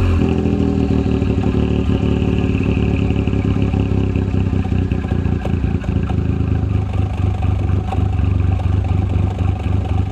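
Suzuki Alto Works (HA21S) turbocharged three-cylinder engine idling steadily through a Kakimoto GT-box 06&S aftermarket muffler, a loud, even exhaust note.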